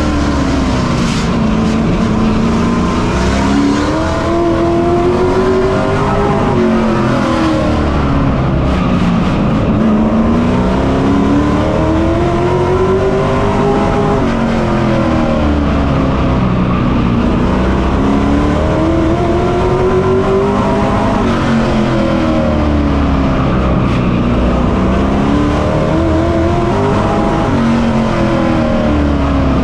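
Pro Truck race engine heard on board at racing speed, the revs climbing down each straight and dropping off through each turn, about every seven seconds.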